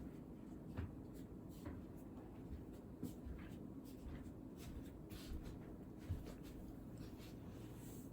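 Handwriting on paper: a run of short, irregular scratching strokes from a pen or pencil tip, with a few soft knocks on the desk.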